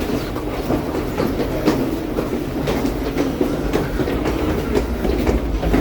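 Toronto Line 1 subway train running through the tunnel, heard from inside the car: a steady rumble with a fast, irregular run of wheel clicks.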